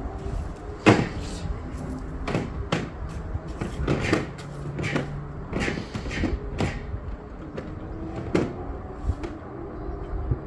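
A series of irregular knocks and clunks, roughly a dozen, the loudest about a second in, over a faint low hum.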